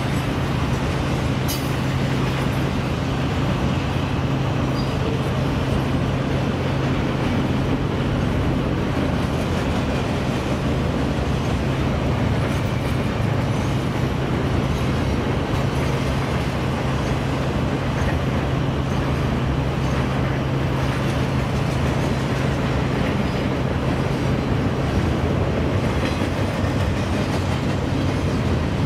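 CSX double-stack container freight train rolling past: a steady rumble of steel wheels on rail and railcars that runs unchanged throughout.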